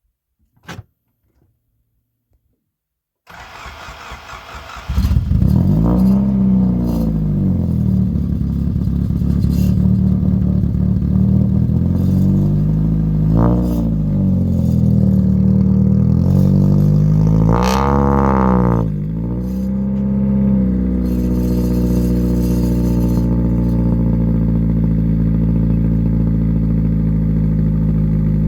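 Honda SOHC D16 four-cylinder engine cold-started: a short click, the starter cranks briefly, and the engine catches about five seconds in. Its revs rise and fall several times, then it settles into a steady cold idle.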